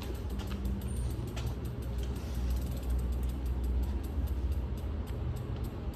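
Bicycle freewheel ticking rapidly as the bike coasts, over a steady low rumble of tyres and wind.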